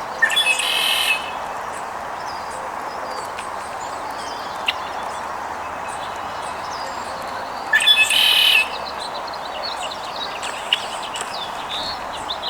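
Two loud, harsh bird calls, each about a second long and some seven seconds apart, with smaller birds chirping in between and after, over a steady background hiss.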